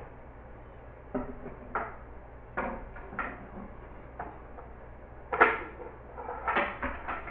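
A series of irregular knocks and bumps, about a dozen, the loudest about five and a half seconds in, with a cluster near the end.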